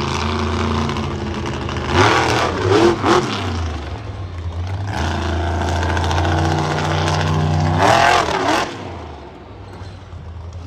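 Monster truck engine running loudly, revved hard twice, with the pitch swinging up and down about two seconds in and again about eight seconds in, then easing off near the end.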